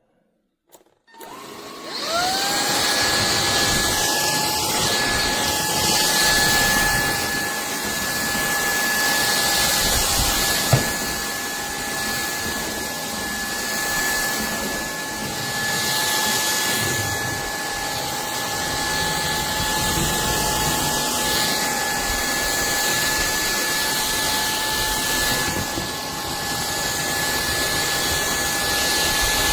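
SKIWEC cordless stick vacuum switched on about a second and a half in: the motor spins up with a quick rising whine, then runs steadily with a high whine over a rush of air. A single sharp click comes about halfway through.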